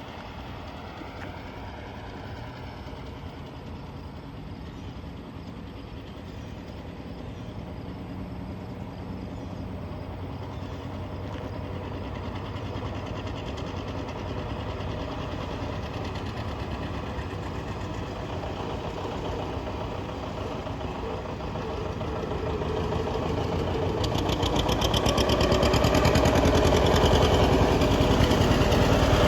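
Vintage tractor engine running, getting steadily louder and loudest over the last few seconds.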